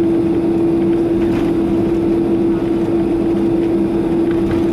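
Steady hum of a Boeing 767-300 with GE CF6 engines at taxi idle: an even rumble with a constant drone, no change in pitch.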